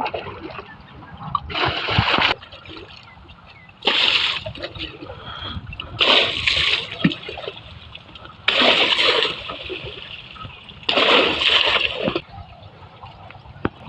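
Water being splashed onto a tractor as it is washed, in five loud bursts about a second long, one every two seconds or so.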